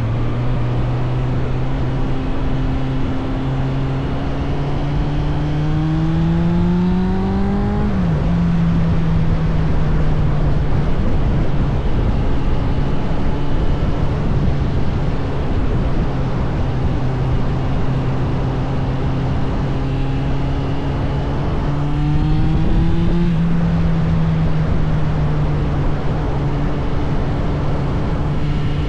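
Suzuki GSF 600 Bandit's inline-four engine under way, its pitch climbing steadily under acceleration and dropping sharply at an upshift about eight seconds in. It then runs steady, climbs again and shifts up once more a little past twenty seconds, over a constant rush of wind and road noise.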